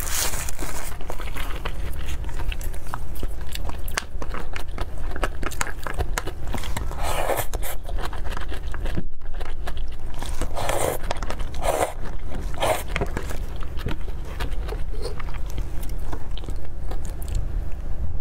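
Close-miked, crisp crunching and chewing of salad vegetables in ASMR style, with the crinkle of a plastic food glove near the start. The sound breaks off for a moment about halfway through, then the loud crunching comes back.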